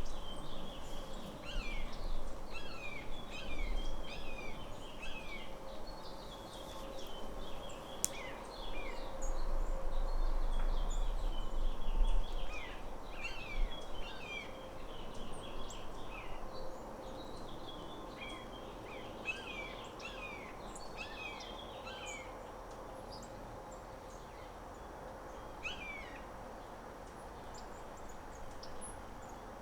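A flock of small birds chirping, many short falling chirps overlapping, thinning out to a few scattered calls after about twenty seconds. A faint steady hum runs underneath.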